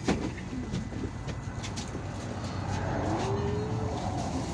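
Cabin noise of an IVECO Urbanway 18M articulated city bus on the move: a steady low engine and road rumble with light clicks and rattles, and a short rising tone about three seconds in.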